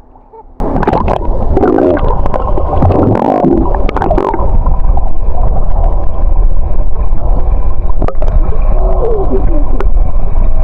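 Loud water gurgling and sloshing over a wet camera's microphone, with a low rumble and crackling rattle; it starts suddenly about half a second in.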